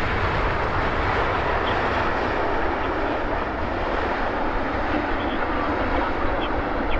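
Jet engines of an Air Canada Boeing 777-200LR, a steady rushing noise with no clear changes.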